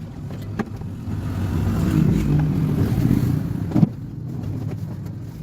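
Washing machine motor running during a test, its hum swelling for a couple of seconds and then easing off, with one sharp click about four seconds in.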